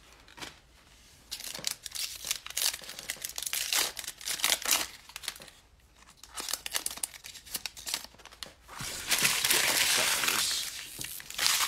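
Cellophane wrapper of a trading-card pack being torn open and crumpled, in irregular bursts of crinkling with a brief lull midway and a long loud stretch near the end.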